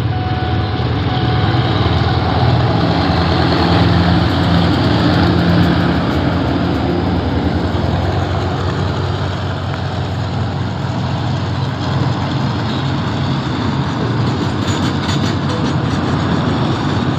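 Diesel locomotive GEA 4555 passing close by with its engine running, loudest about four to six seconds in. A train of tank wagons follows, rolling past with steady wheel-on-rail noise.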